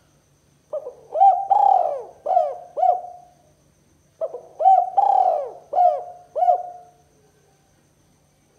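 Spotted dove (tekukur) cooing: two matching phrases of about five coos each, the second starting about a second after the first ends.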